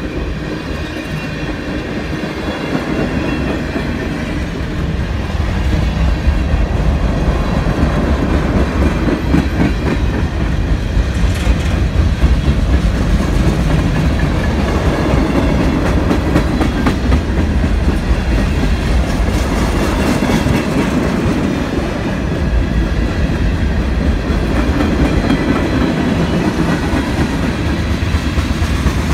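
CN freight train of tank cars and covered hopper cars rolling past close by, the wheels running steadily on the rails. It gets louder about five seconds in.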